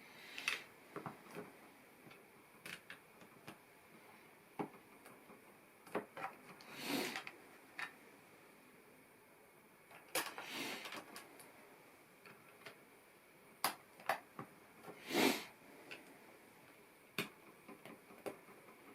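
LEGO pieces being handled and pressed together: scattered small plastic clicks and taps, with a few short rustles of pieces being rummaged or shifted.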